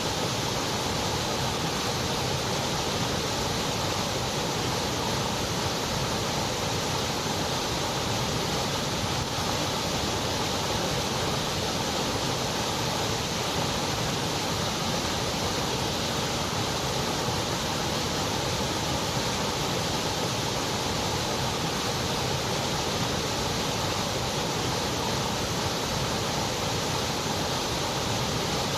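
Continuous white noise: an even, steady hiss that does not change.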